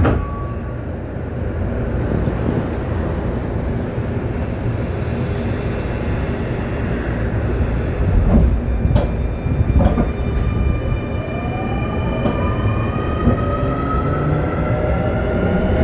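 Keio 9000 series electric train running, a steady low rumble with a few wheel clicks over rail joints. About two-thirds of the way in, the traction motors start a whine of several tones rising together in pitch as the train accelerates.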